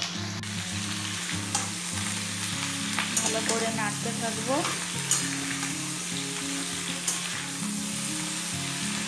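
Chopped vegetables sizzling in hot oil in a steel wok as a spatula stirs them. The spatula clacks against the pan several times and gives a few squeaky scrapes about halfway through.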